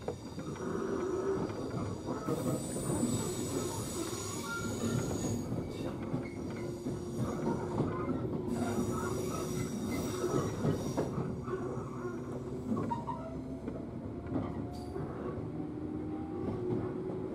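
103-series electric train heard from inside the car while running: a steady rumble of wheels on rail under a motor whine. A high wheel squeal comes twice, for a few seconds each, and near the end a whine rises slowly in pitch.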